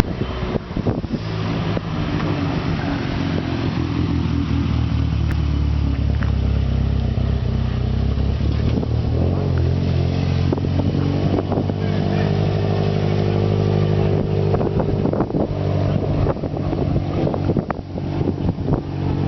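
Car engine with a loud aftermarket muffler running steadily, a low, even exhaust drone; its pitch steps up slightly partway through.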